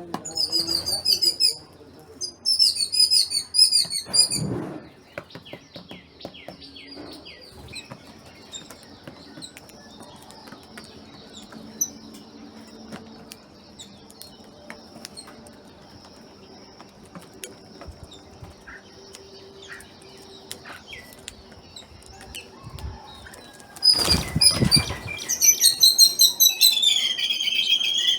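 Small birds chirping in quick runs of high notes, loudest at the start and again near the end, with only faint scattered chirps in between. A brief loud rustle comes shortly before the closing chirps.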